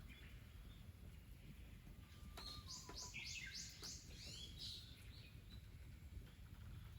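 A small bird calling: a quick run of about six high, repeated notes midway through, over a faint low background rumble, with a few soft clicks.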